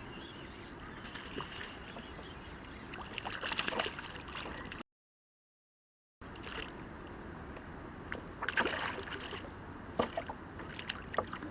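Water sloshing and splashing around a kayak, with two louder splashy bursts and a few sharp clicks near the end. Sound drops out completely for over a second partway through.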